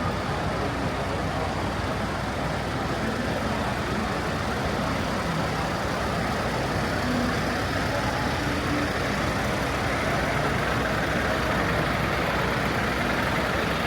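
Heavy truck engine idling steadily under a constant background din.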